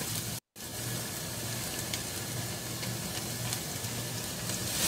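Chopped onion and garlic sizzling in hot oil in a frying pan, a steady hiss. The sound cuts out for a moment about half a second in.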